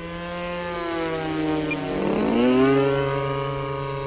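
Two radio-control model airplanes' engines and propellers running at high throttle. One plane passes close, swelling to its loudest about two and a half seconds in and dropping in pitch as it goes by, while the other holds a steady tone.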